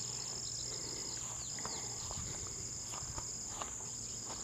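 A steady, high-pitched chorus of insects singing outdoors, with a few short falling chirps and faint clicks scattered through it.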